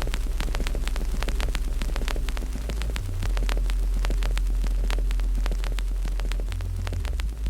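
Wood fire crackling, with irregular sharp pops and snaps, over a loud deep hum that shifts in pitch a couple of times.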